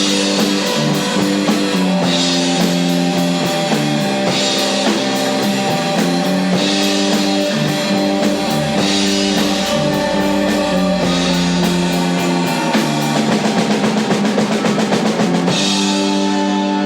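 Rock band playing: sustained guitar chords over a drum kit, with a cymbal crash about every two seconds and a stretch of fast pulsing near the end.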